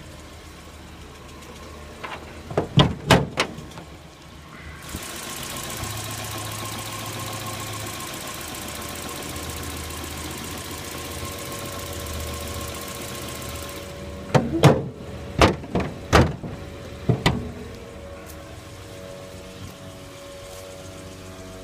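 Nissan RB20E straight-six running soon after a cold start. A long stretch of louder rushing noise fills the middle, and two clusters of sharp clunks come a few seconds in and again after the middle.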